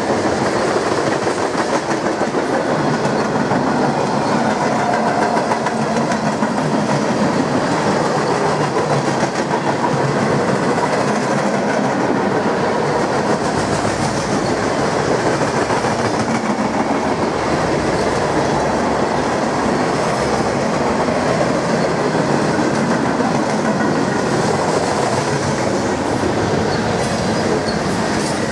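Long mixed freight train of tank cars, covered hoppers and gondolas rolling steadily past, its steel wheels clattering over the rail joints in a continuous clickety-clack.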